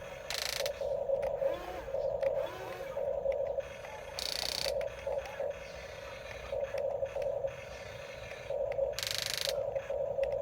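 Small electric motors of RC construction toys whining in short on-off runs as the controls are worked. There are brief slides in pitch and three short hissing bursts.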